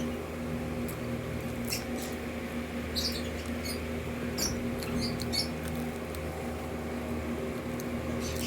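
Close-up chewing of crunchy deep-fried, flour-battered chicken intestines, with irregular crisp crunches several times a second. A steady low hum runs underneath.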